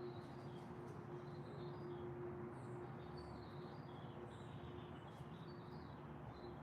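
Small songbirds chirping faintly, with many short high notes scattered throughout, over a steady low hum and background rumble.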